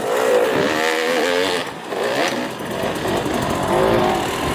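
Enduro motorcycle engine revving up and down in quick throttle blips, its pitch rising and falling over and over.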